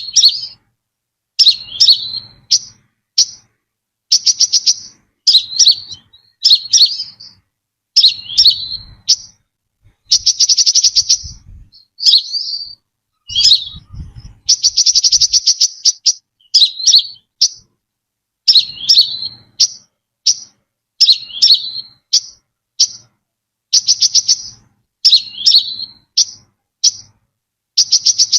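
Brown-throated sunbird calling: a fast run of sharp, high chips, broken by several rapid rattling trills of a second or two each.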